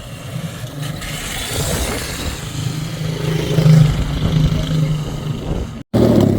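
Stunt motorcycle engine running and revving. The sound cuts out for a moment near the end.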